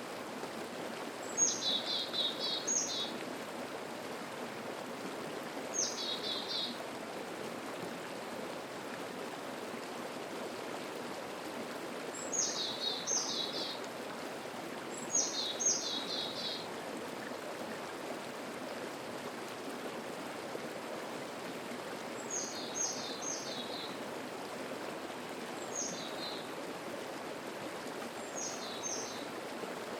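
Steady rush of a mountain stream over a cascade. A songbird sings short phrases of quick, falling high notes every few seconds over it, and the phrases are fainter in the second half.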